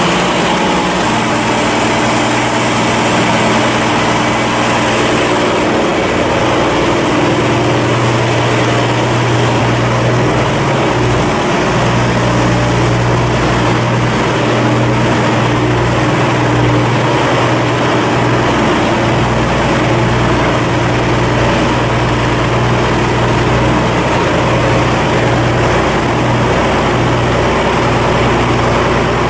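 Large marine diesel engine running steadily, a constant low hum with a level drone over it and no change in speed.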